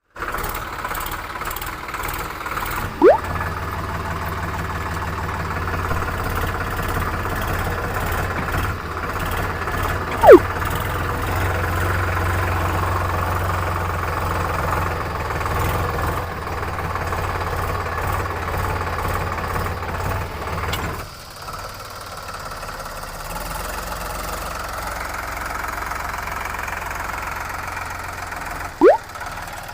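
Tractor diesel engine running steadily, turning quieter and lower about two-thirds of the way through. Three short, loud sliding chirps cut through: one near the start, one about a third of the way in, and one near the end.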